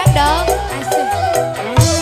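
Instrumental music from a band: a melody line sliding up and down in pitch over a drum beat, with the low drum hits dropping out briefly and coming back near the end.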